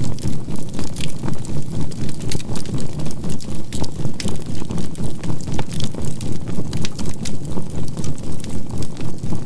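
Campfire crackling, with scattered sharp pops and snaps over a synthesized low drone that pulses evenly about three times a second. A faint steady tone sits within the drone; this is the 528 Hz healing-frequency and binaural-beat track mixed with the fire.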